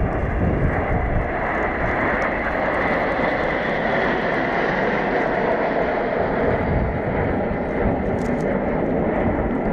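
Jet aircraft flying past at an airshow, a loud, steady rush of jet engine noise.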